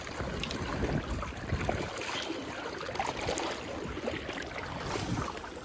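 River water flowing and splashing around a wading angler, with wind rumbling on the microphone and scattered small clicks. A faint high whine starts near the end.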